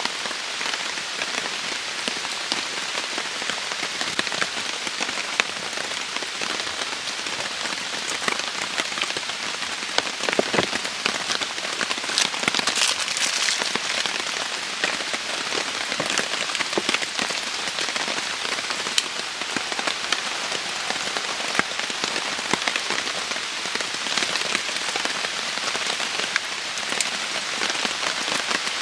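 Heavy rain falling steadily, with individual drops ticking close by on hard surfaces; the rain grows louder for a spell about twelve seconds in.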